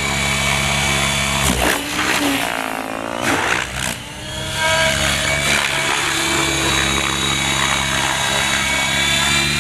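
RC model helicopter's motor and main rotor whining. The pitch dips and swoops about two to four seconds in, then climbs steadily as the head speed is raised to high.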